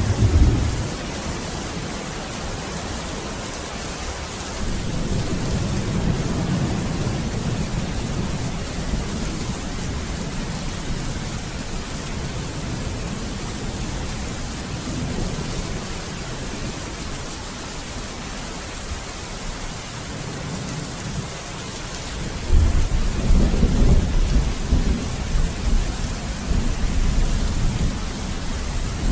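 Steady heavy rain hissing, with rolls of thunder: a low rumble right at the start, another from about five seconds in, and the loudest, longest roll beginning about three-quarters of the way through.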